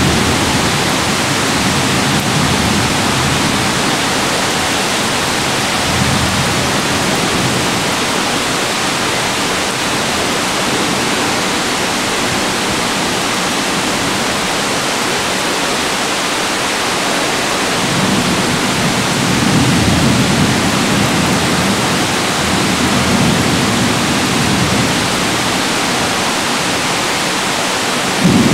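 Very heavy tropical rain pouring down in a steady, dense hiss. Low rumbles of thunder roll underneath, half drowned by the rain, strongest from about 18 to 25 seconds in.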